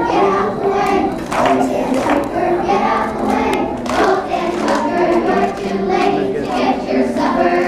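A choir of young children singing, many voices holding sung notes together.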